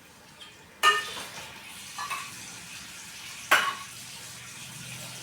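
Metal kitchen utensils clanking as dishes are handled: two loud ringing clanks, about a second in and about three and a half seconds in, with a lighter knock near two seconds and a faint hiss between them.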